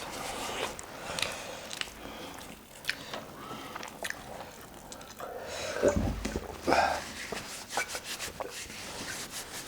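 Close-up eating sounds: biting and chewing food, with scattered small mouth clicks and a dull low bump about six seconds in.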